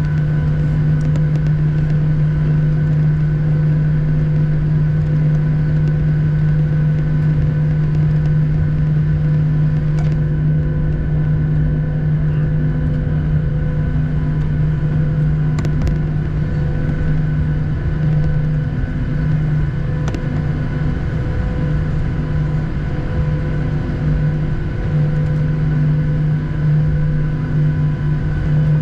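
Boeing 737-800's CFM56 engines at taxi power, heard inside the cabin: a steady loud hum with a strong low drone and several fainter steady tones above it. A couple of faint clicks come through about ten and sixteen seconds in.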